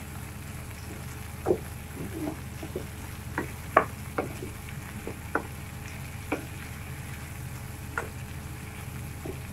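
Marinated chicken frying in a pan: a steady sizzle with short, sharp pops and clicks scattered irregularly, about ten over the stretch.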